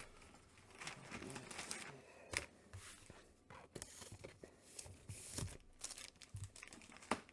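Faint rustling and crinkling of comic books being handled, with several sharp clicks and taps scattered through it.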